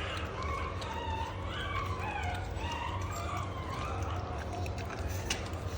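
Bully-breed puppies whining and yelping in short, overlapping, sliding calls while they eat and jostle over raw chicken.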